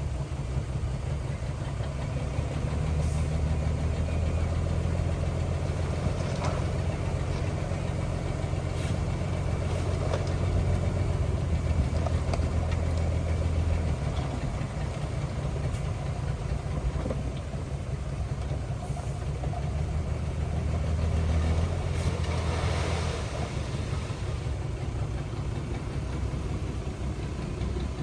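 Heavy diesel engine of earthmoving equipment running with a low, pulsing rumble that swells for long stretches, as under load, then eases back.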